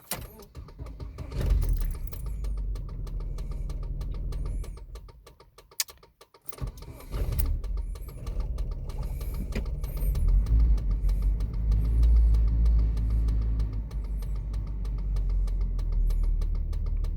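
1988 Volvo 245 GL engine cold-started at about 5 °C: it catches and runs for about three seconds, dies away, then is started again about seven seconds in and keeps running with an uneven level. The engine doesn't really like the cold start.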